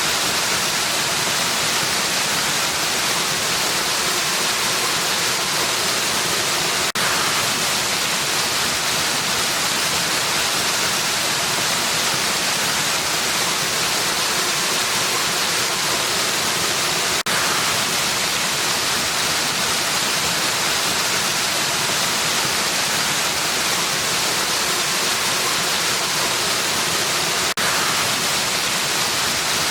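Steady rush of falling water from a waterfall: a dense, even hiss, heaviest in the upper range. It dips out very briefly about every ten seconds.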